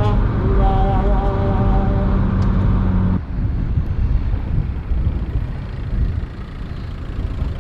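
Car engine noise: a steady droning tone over a heavy low rumble, cutting off abruptly about three seconds in and leaving a rougher, uneven rumble.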